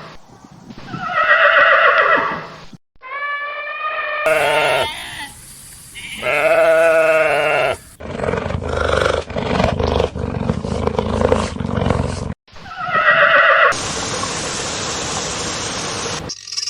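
A series of farm-animal calls in short clips that cut off abruptly: several drawn-out calls with a clear pitch, a rough, noisy stretch with a low rumble in the middle, another call, then a steady hiss near the end.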